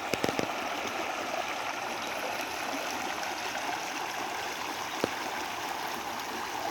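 Waterfall rushing, a steady, even wash of falling water. A few sharp clicks sound right at the start and one more about five seconds in.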